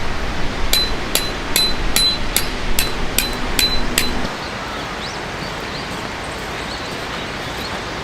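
Hammer blows on metal, about two and a half a second, each with a short ringing tone, stopping about four seconds in; a steady outdoor rushing noise continues after.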